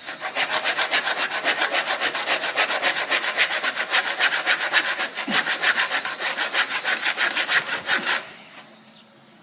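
Handsaw cutting through a wooden board in quick back-and-forth strokes, several a second, that stop about eight seconds in.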